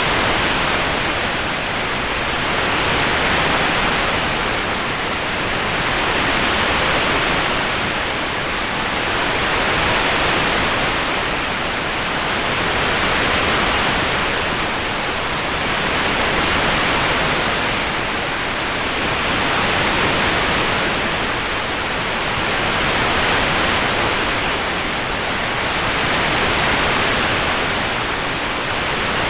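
Rain-sound background track: an even hiss that swells and eases about every three seconds.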